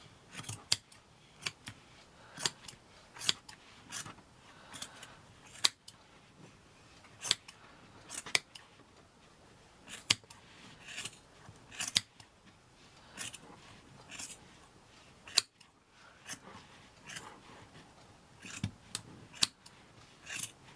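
Scissors snipping off excess craft material in a run of short, sharp cuts, roughly one a second at an uneven pace.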